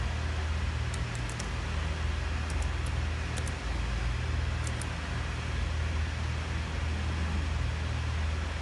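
Steady low electrical hum with hiss, and a few short, light clicks in small groups during the first five seconds.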